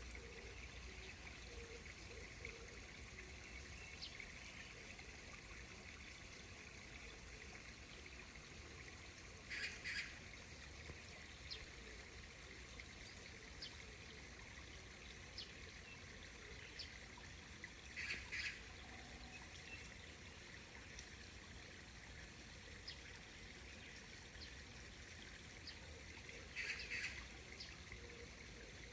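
Faint, steady trickle of a small stream. Three short, louder bursts of bird calls come about 10, 18 and 27 seconds in, with scattered faint chirps between them.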